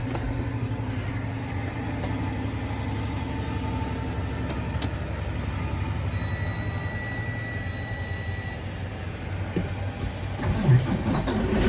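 Detroit DD15 inline-six diesel engine idling just after start-up, heard from inside the truck's cab: a steady low rumble, very quiet. About six seconds in, a steady electronic beep sounds for about two and a half seconds.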